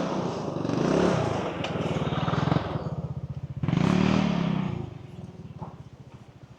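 A small engine running close by, swelling twice and then fading away.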